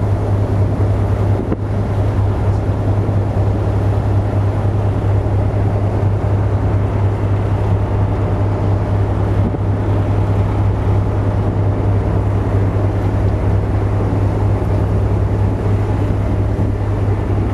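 Steady low drone of a car ferry's engines heard on board, a constant deep hum with an even rushing noise over it.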